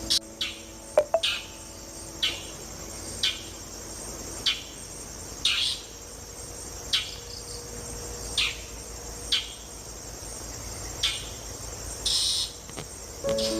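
Insects, likely crickets, trilling steadily and high-pitched, with short sharp chirps about once a second and a couple of clicks about a second in.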